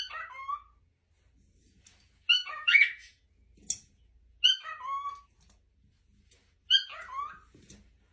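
A parrot gives four short whistled calls about two seconds apart, each sliding down in pitch at the end. A brief sharp click falls between the second and third calls.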